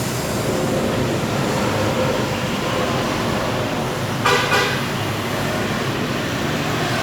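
Steady road traffic noise from passing vehicles, with a short vehicle horn toot a little over four seconds in.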